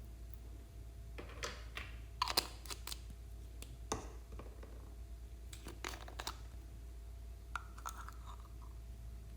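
Slime being pressed and kneaded by hand, giving irregular crackling clicks and pops, with a short squelch near the end.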